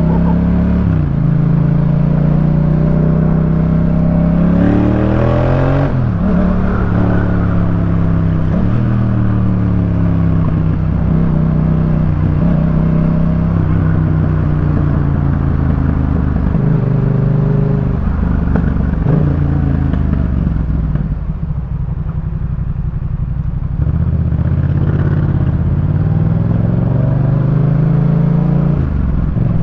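2018 Yamaha MT-07's parallel-twin engine through a Jeskap K4 full exhaust, under way with revs rising and falling through gear changes. A strong rev climb about five seconds in drops sharply at a shift near six seconds. It runs lower and quieter for a few seconds past the twenty-second mark.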